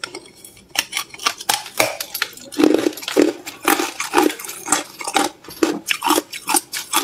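Hard clear ice being bitten and chewed: rapid, irregular crisp crunches and cracks, several a second.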